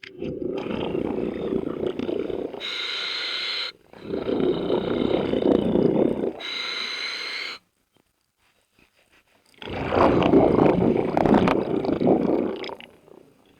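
Scuba diver breathing through a regulator underwater. Each long exhale comes out as a rumbling rush of bubbles, and each inhale as a shorter hiss with a faint whistle, in two full breaths. After a pause of about two seconds there is another rumbling exhale.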